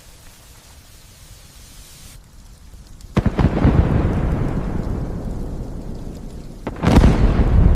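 Thunder over light rain: a sudden loud clap about three seconds in that rumbles and fades over a few seconds, then a second loud clap near the end that cuts off abruptly.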